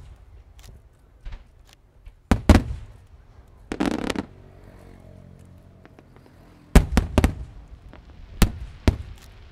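Fireworks bursting: sharp bangs, a few in quick succession about two and a half seconds in and again near seven seconds, with a longer crackling burst around four seconds.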